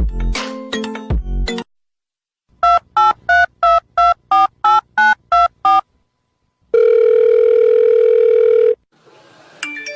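A few plucked music notes end, then ten quick telephone keypad beeps of tone dialing, their pitch changing from key to key, followed by a steady telephone line tone that lasts about two seconds.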